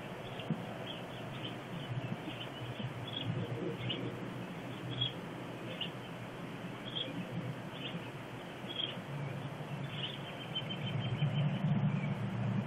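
Small birds chirping in short calls about once a second, with a quick run of chirps about ten seconds in, over steady outdoor background noise. A low rumble grows louder near the end.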